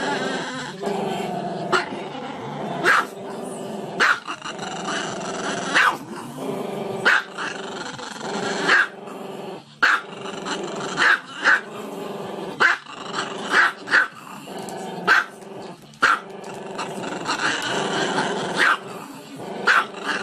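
Small black-and-tan dog making a continuous growling, grumbling sound broken by sharp barks about once a second.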